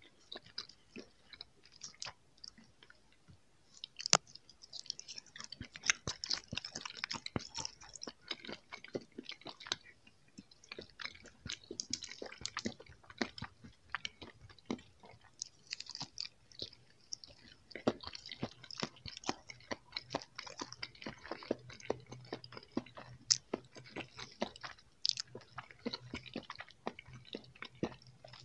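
Jelly candy finger coated in sprinkles being bitten and chewed close to the mouth, with many small irregular clicks and crackles of chewing and a sharper click about four seconds in.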